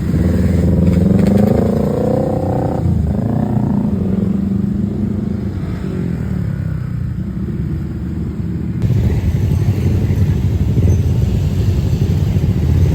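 Motorcycle engines in heavy traffic: a steady low rumble, with an engine revving and climbing in pitch over the first few seconds.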